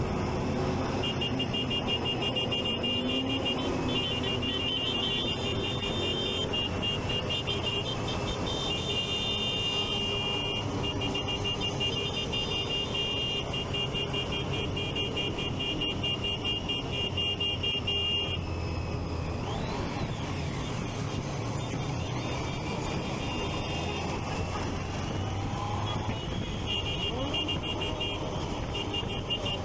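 Triumph Street Triple 675's three-cylinder engine running on a ride, with traffic around it. A rapid, high-pitched pulsing beep sounds over it for most of the first eighteen seconds, stops, and comes back near the end.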